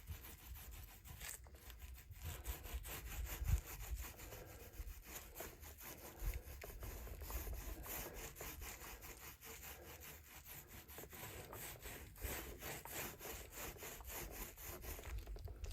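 Faint, quick, repeated rubbing strokes of a brush working wet resin into fiberglass cloth on a drum shell.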